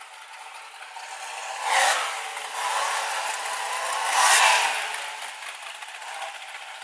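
A car engine revving, swelling loudest about two seconds in and again a little past four seconds.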